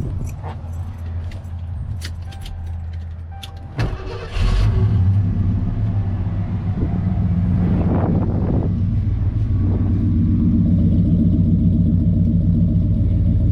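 1990 Ford F-150's 302 (5.0-litre) V8 cranking, then catching and starting about four seconds in. It revs up and back down once, then settles into a steady idle through MagnaFlow dual exhaust.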